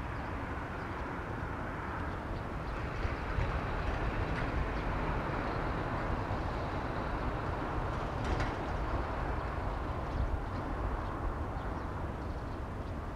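Electric train running along the line: a steady rumble that swells a little a few seconds in, with a sharp click about eight seconds in.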